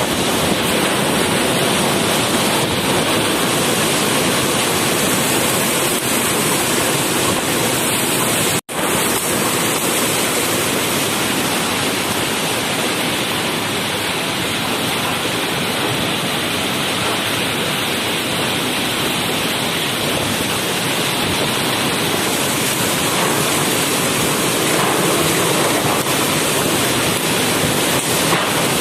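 Rough typhoon-driven sea surf and strong wind making a loud, steady rush of noise, broken by a split-second cut about eight and a half seconds in.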